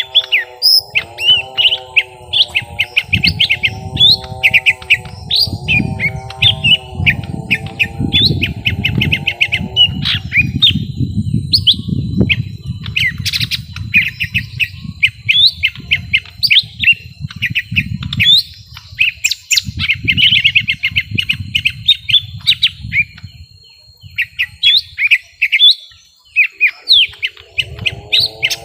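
Young lesser green leafbirds (cucak ijo mini) calling at each other in a fighting bout, in rapid, dense runs of high chirps and chatter. A lower, repeated swooping sound runs beneath them for about the first ten seconds and comes back near the end.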